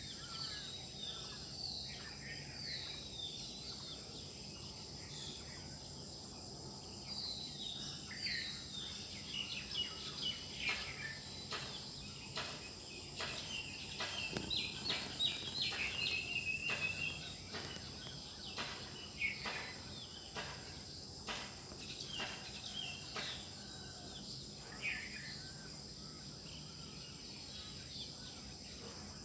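Birds chirping and singing in short, falling calls over a steady, high-pitched insect drone, with a burst of rapid chirping about halfway through.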